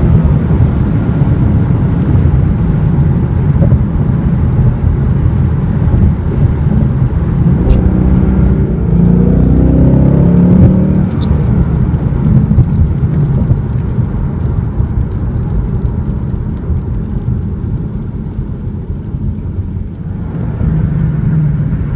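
Ford Mustang GT's 5.0L V8 running with a deep exhaust rumble while the car is driven. The revs climb for about two seconds near the middle, then it settles back and runs a little quieter near the end.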